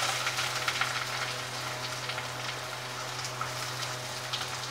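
Chopped onions sizzling in hot ghee with garlic and curry leaves in a frying pan: a steady crackling hiss that settles a little over the first second or so.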